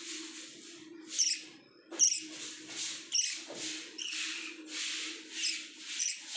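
Lovebirds giving five or so short, sharp, high chirps over a pulsing hiss and a steady low hum.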